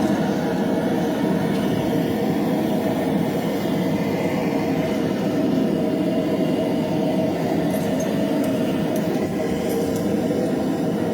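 A forge running with a steady, even roar while a knife blank heats in it.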